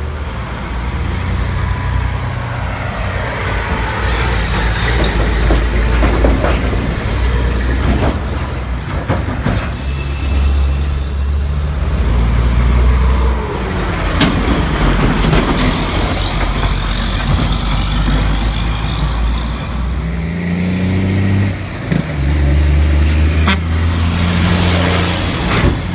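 Diesel engines of heavy semi trucks running and pulling away in traffic, their low rumble swelling and easing, with air-brake hiss. A thin high squeal comes in near the end.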